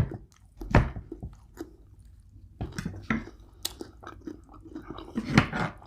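A person chewing a mouthful of food close to the microphone, with irregular mouth clicks and smacks.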